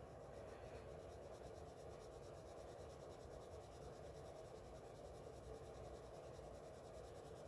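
Faint, steady scratching of a Crayola Colors of the World coloured pencil shading on paper, barely above room tone.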